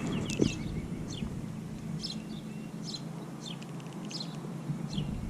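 A songbird chirping: a string of short, high chirps, each sweeping down, about one or two a second, over a faint steady low hum.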